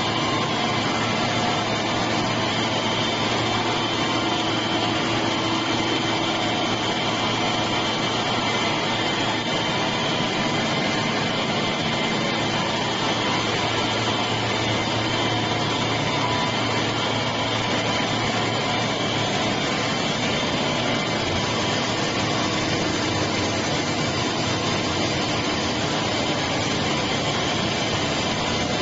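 Three-phase decanter centrifuge (tricanter) running steadily while separating beef oil: a dense, even machine whir with a few faint steady tones and no change in level.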